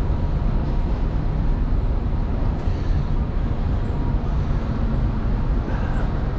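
Steady low rumble of wind buffeting the microphone on a ship's open deck.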